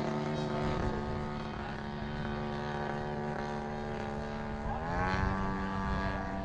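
Radio-controlled model airplane engine and propeller running steadily in flight, its pitch rising about five seconds in.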